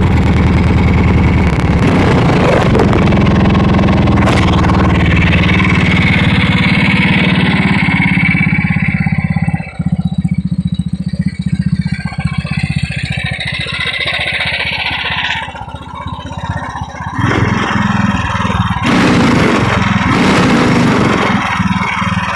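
Ducati 350 motorcycle engine warming up after a cold start, running at a fast idle. About ten seconds in it drops to a quieter, uneven idle, then picks back up near the end.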